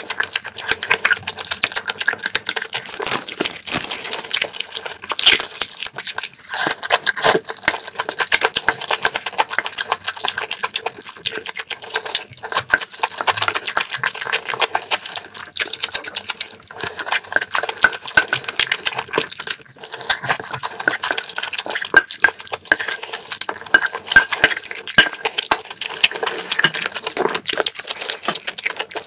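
Close-miked chewing of a mouthful of stir-fried squid with glass noodles: a dense run of small wet clicks and smacks, many per second. Near the end a wooden spoon scoops in an aluminium pot.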